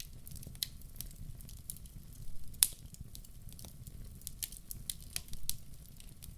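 Wood fire crackling, with irregular sharp pops (the loudest about two and a half seconds in) over a steady low rumble.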